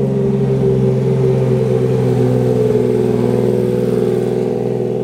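Porsche 911 GT3 RS's naturally aspirated flat-six running at low revs as the car rolls slowly past, a steady, even engine note.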